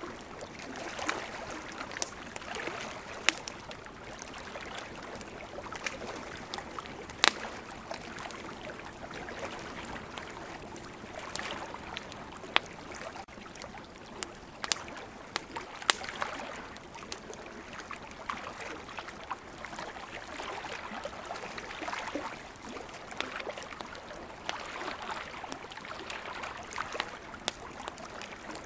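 Wood campfire crackling, with sharp, irregular pops, over the wash of ocean waves that swells and fades every few seconds.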